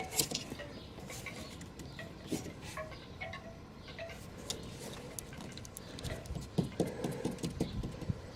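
Faint, scattered light clicks and clinks of hand tools and parts being handled during work on the car, with no steady sound.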